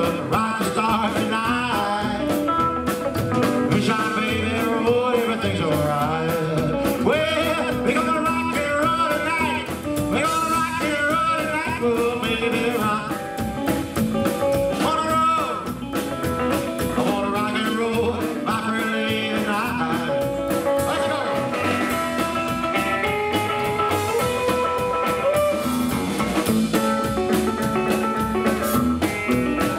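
Live rockabilly band playing a fast rock 'n' roll number on electric guitar, double bass and drums.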